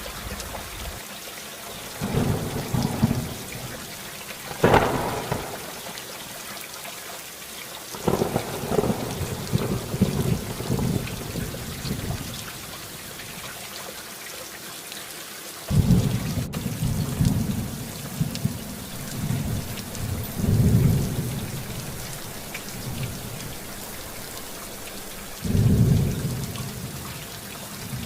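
Storm ambience: a steady hiss of driving precipitation with repeated deep rumbling surges, several starting abruptly and lasting a second or more.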